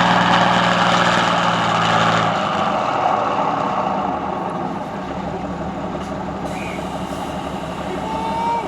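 Heavy truck engine running loud, its steady drone dropping away about two seconds in, then fading into a broad rumble. A short whistle-like tone sounds near the end.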